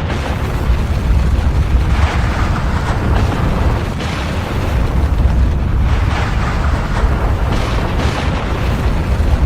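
Volcanic eruption: a continuous deep rumble with rougher, crackling surges about four times.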